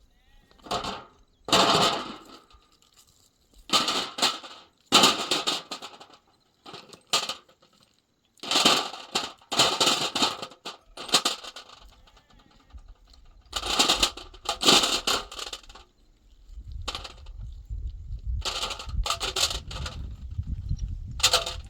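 A series of short scraping strokes, each about half a second to a second long, coming at uneven intervals, with a low rumble setting in under them in the last few seconds.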